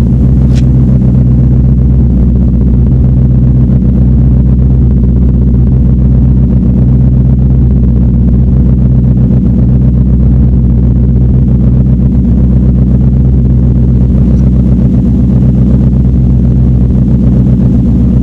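V8 engine idling steadily after a cold start, an even, unchanging rumble with no revving. A brief click sounds about half a second in.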